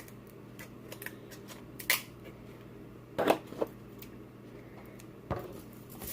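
King crab leg shells being cracked and pulled apart, giving a handful of sharp cracks and clicks, loudest a little past the middle, over a faint steady hum.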